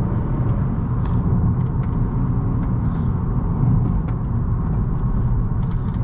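Car interior sound of a 2018 Honda Accord's 1.5-litre turbocharged four-cylinder engine pulling steadily on a winding mountain road, over a continuous low road and tyre rumble, with a few faint light ticks.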